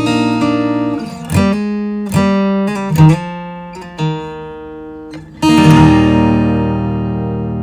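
Acoustic guitar music: several strummed chords, the last and loudest struck about five and a half seconds in and left ringing out.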